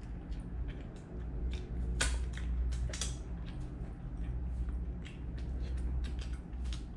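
Close-up chewing of a pork floss bun with egg cream filling: bites and chewing with a run of small clicks and soft crunches, the sharpest about two and three seconds in.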